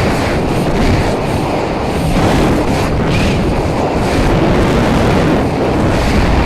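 Loud, steady wind buffeting on the microphone, a rushing noise with a heavy low rumble.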